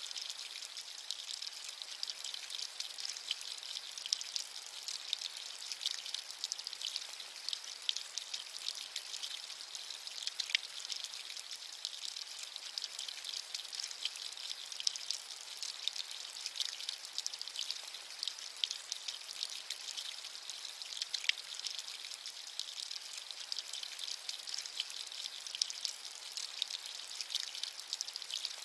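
Steady rain with many small drops pattering close by, an even high-pitched hiss with fine ticks and no low rumble.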